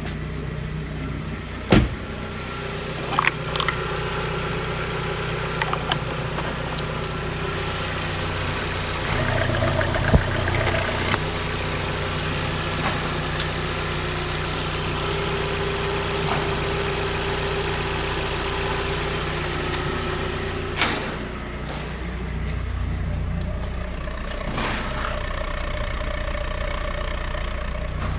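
Audi A6 C4's 1.8-litre ADR four-cylinder petrol engine idling steadily, with a few sharp knocks, the loudest about two seconds and ten seconds in.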